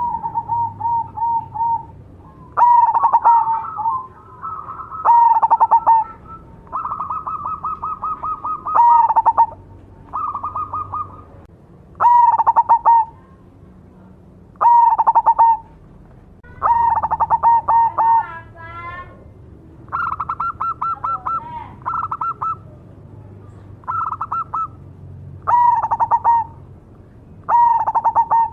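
Zebra dove (perkutut, black cemani variety) cooing over and over: phrases of quick, pulsing coos near 1 kHz, with a louder, fuller phrase every two to three seconds.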